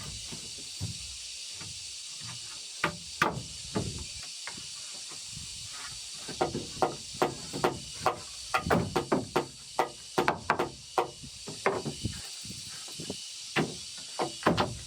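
Repeated blows of a hand tool in woodwork: a few scattered strikes, then quick runs of about two to three blows a second through the middle and again near the end.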